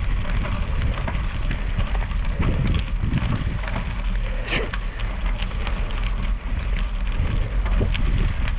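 Bicycle tyres crunching over gravel, a dense crackle under a low rumble of wind buffeting the microphone, with one short high squeak about four and a half seconds in.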